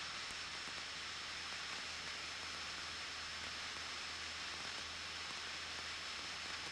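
Steady hiss of the cockpit intercom audio feed, with a faint, even low drone from the Cessna 172N's engine and propeller in cruise flight.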